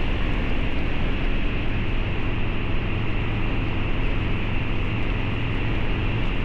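Harley-Davidson Low Rider's 129 ci V-twin through a Two Brothers Racing exhaust, running at a steady throttle while riding, its pitch holding level throughout.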